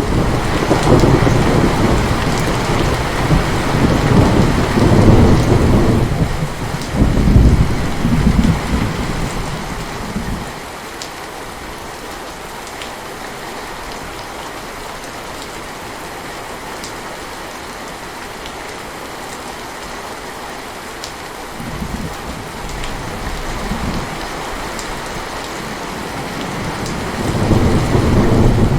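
Heavy rain falling steadily, with rolling thunder rumbling loudly through the first ten seconds or so, then rain alone, and thunder rumbling again near the end.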